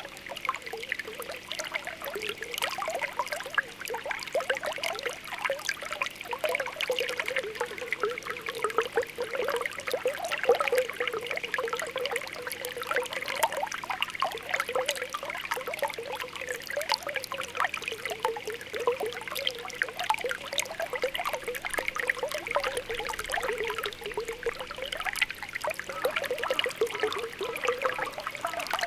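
Spring water welling up through the ground, bubbling and popping steadily with a continuous burble of small plops.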